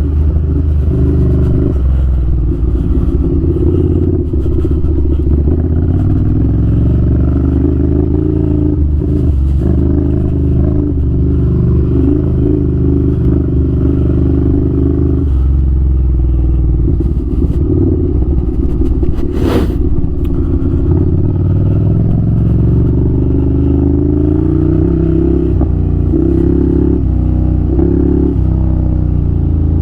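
Ducati Scrambler 800's air-cooled V-twin running through a no-baffle Arrow titanium exhaust while ridden slowly over rough ground, its pitch rising and falling in steps as the throttle opens and closes. A single sharp knock comes about two-thirds of the way through.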